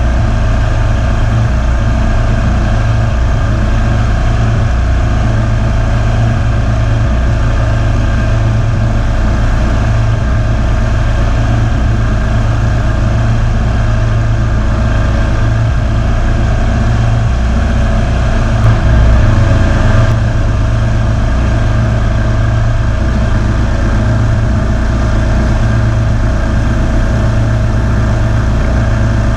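Kawasaki V-twin engine of a Ferris zero-turn lawn mower running steadily, with a brief rise in loudness about two-thirds of the way through.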